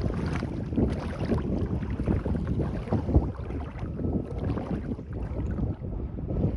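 Wind rumbling and buffeting on the microphone over the wash of sea waves, with irregular gusts.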